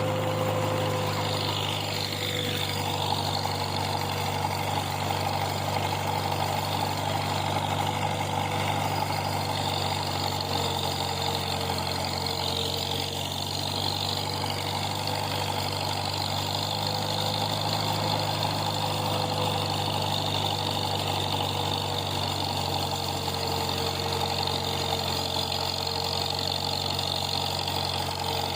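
Farmall M tractor's four-cylinder engine running steadily at an even speed.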